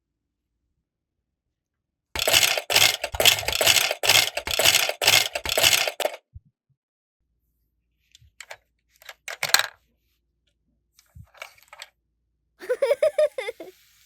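Small toy kitchen pieces clattering and clinking while a miniature smoothie is made. A dense rattle of quick sharp strokes starts about two seconds in and lasts about four seconds, followed by scattered clicks and taps and a second short rattle near the end.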